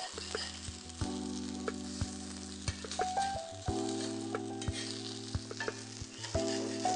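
Thavalai vadai, patties of coarse-ground rice and lentils, shallow-frying in oil on a flat iron tawa, with a steady sizzle and a metal spatula working among them. Soft background music of held chords plays under the sizzle.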